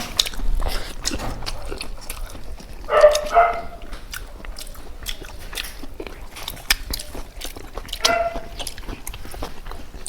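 Close-up eating sounds from a mukbang meal of chicken parts: many small wet clicks and smacks of chewing and biting, with two short voiced sounds, one about three seconds in and one near the end.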